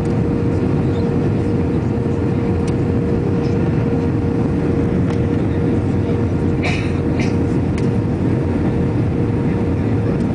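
Airbus A321 cabin noise in flight: steady engine and airflow noise, mostly low, with a steady hum. A couple of brief clicks come just past halfway.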